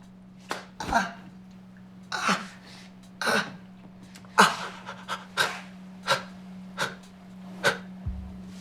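A man's sharp, breathy panting and puffing, about ten short forced breaths at uneven intervals, over a faint steady hum.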